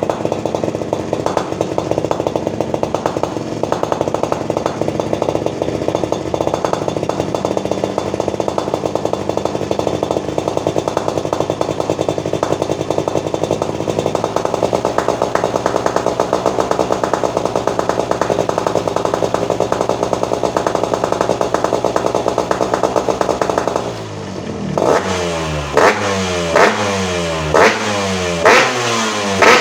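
Yamaha RX-King's single-cylinder two-stroke engine running through a gutted, open exhaust with a fast rattling beat. Near the end it is given a quick run of throttle blips, about one every three-quarters of a second, each rising and falling in pitch.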